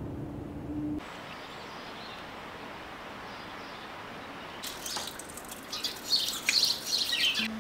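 Small songbirds chirping and twittering in quick, dense runs over a steady outdoor hiss, starting a little past halfway. A steady low hum cuts off sharply about a second in.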